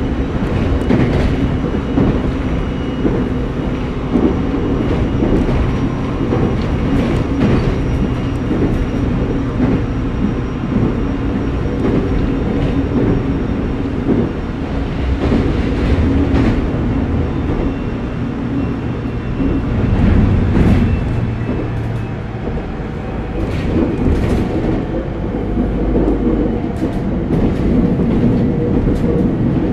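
ET127 series electric train running, heard from inside the passenger car: a steady rumble of wheels on rail, with sharp clacks over rail joints every several seconds, some of them in pairs.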